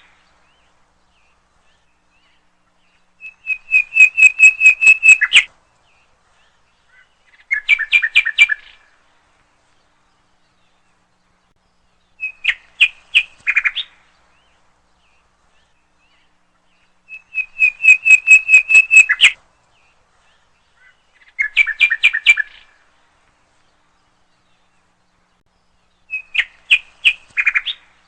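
A songbird singing: six phrases, each a quick run of repeated whistled notes that ends in a harsher, buzzier flourish, with a pause of a few seconds between phrases.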